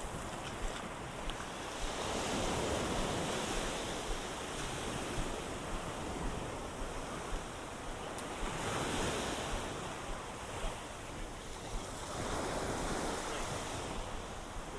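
Ocean waves washing against a seawall, swelling in three surges, with some wind on the microphone.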